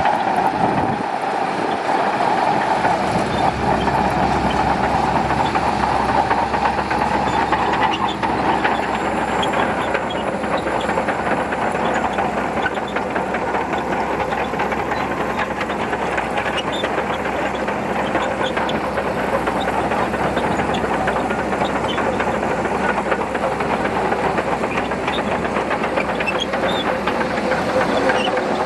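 Shantui DH17C2 crawler bulldozer working in sand: its engine runs steadily under load, with a stream of small clicks and rattles from the steel tracks.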